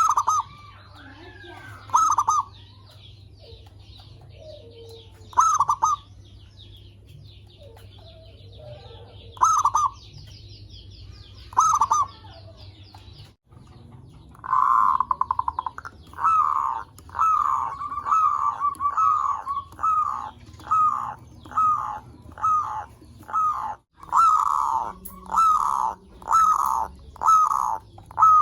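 Zebra doves (perkutut) cooing: a few spaced phrases in the first half, then after a short break a fast run of repeated coos, about one and a half per second.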